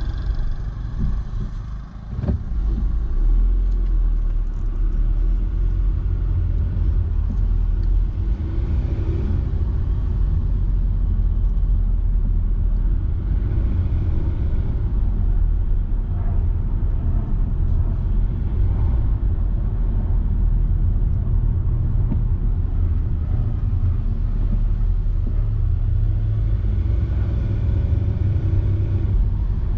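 Car driving along at a steady pace: a low, steady rumble of engine and road noise that briefly drops about two seconds in.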